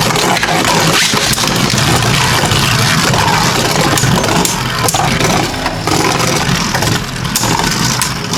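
Two Beyblade Burst Turbo spinning tops, Kerbeus K4 and Blizzard-X Gaianon, spinning and clashing in a plastic Rail Rush stadium. The sound is a continuous rattling whir broken by repeated sharp clicks as the tops strike each other and the stadium.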